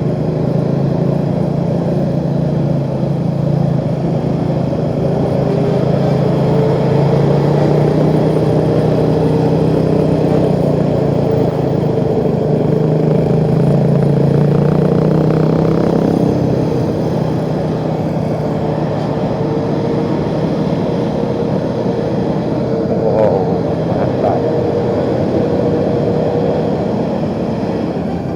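Motorcycle engine running steadily at cruising speed, with road and wind noise; its pitch rises slowly a few seconds in, and there is a brief rise and fall in pitch near the end.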